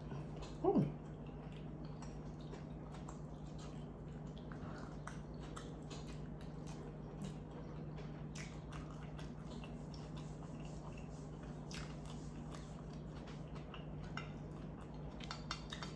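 Close-miked chewing of a mouthful of cheesy pasta: soft, wet mouth clicks and squishes scattered throughout, with a short falling vocal "mm" about a second in. A steady low hum runs underneath.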